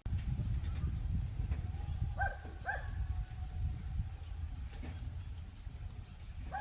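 Two short animal calls, close together, a little over two seconds in, over a steady low rumble.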